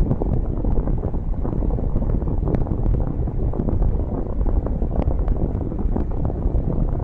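Steady low rumbling noise, with wind buffeting the microphone and a few faint ticks.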